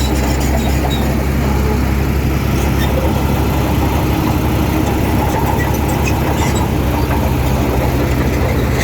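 Heavy construction machine's diesel engine running steadily, a constant low drone.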